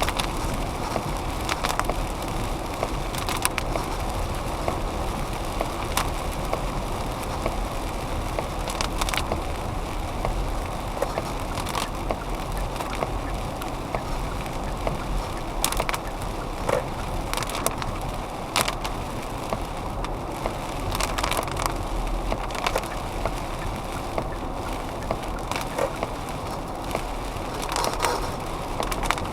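PSB-11 spirit box sweeping radio stations through its noise gates: a steady choppy rush of radio static with scattered clicks and crackles as the sweep jumps between frequencies.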